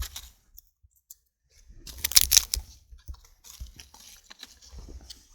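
Dry birch bark crackling and rustling as it is crumpled and packed by hand into a fire lay as tinder, loudest in a brief burst of crisp crackles about two seconds in.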